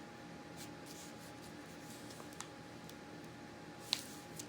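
A sheet of copy paper being handled and creased by hand: faint rustling with a few soft ticks and one sharper crackle about four seconds in.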